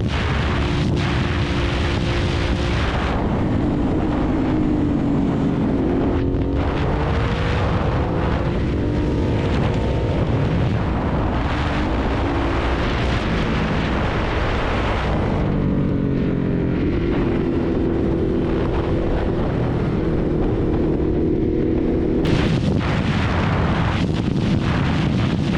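Ducati Hypermotard's L-twin engine under way, its note rising and falling repeatedly as the rider works the throttle and gears, with wind rushing over the microphone.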